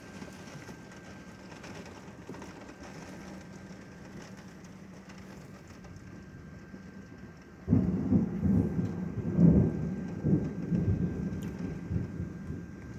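Steady rain falling, then about eight seconds in a sudden clap of thunder that rumbles on in several surges and fades over the next few seconds.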